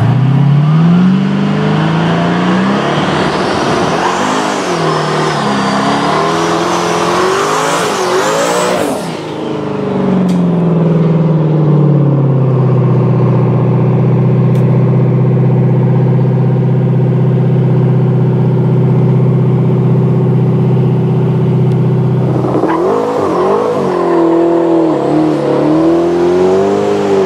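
Twin-turbo 351 Windsor V8 of a 1989 Ford Mustang LX revving hard with its pitch climbing and wavering. About halfway through it holds a steady high rev for several seconds in a smoky burnout, the rear tyres spinning. Near the end the revs rise and fall again as it pulls away, still spinning the tyres.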